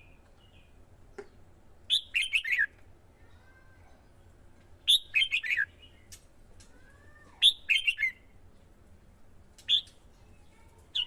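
Red-whiskered bulbul singing short, bright chirped phrases, one about every two and a half seconds, the last a single brief note.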